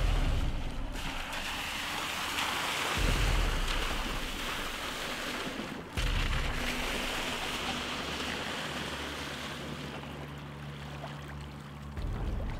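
Rushing water-and-wind noise, like waves on a lake shore. It swells abruptly about three seconds in and again about six seconds in, then slowly fades each time.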